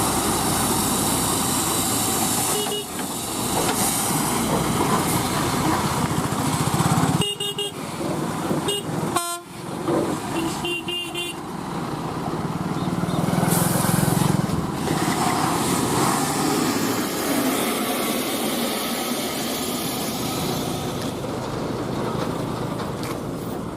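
Heavy lorry's engine running amid outdoor road noise, with vehicle horns honking.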